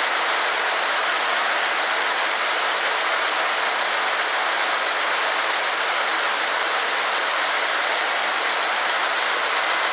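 A 1965 Ford Galaxie 500's engine idling steadily. It is a good, even idle now that a vacuum leak at the transmission has been fixed.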